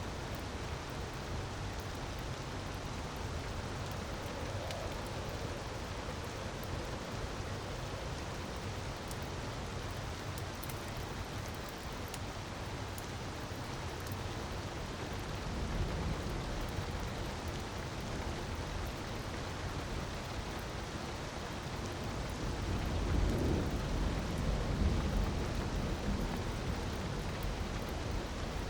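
Steady rush of falling water with faint crackles of a wood fire, and deep rumbles swelling twice: about halfway through and again near the end.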